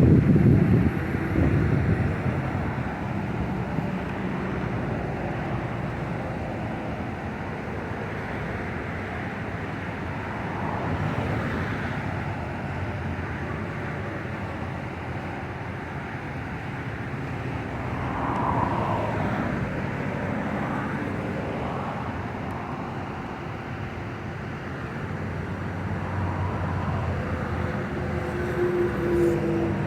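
Wind blowing across the microphone over a steady hum of passing traffic, with a strong gust buffeting the microphone at the start.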